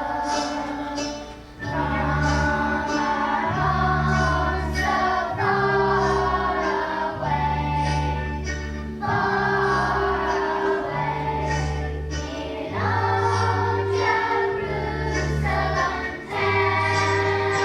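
Choir singing over a musical accompaniment with a bass line that changes note every second or so.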